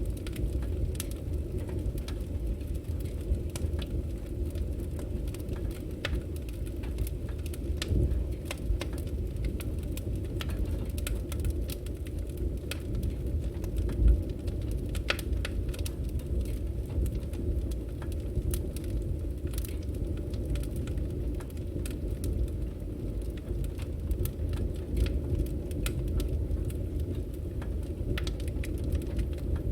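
Firewood burning: a steady low rumble of flame with frequent irregular crackles and pops, one louder pop about fourteen seconds in.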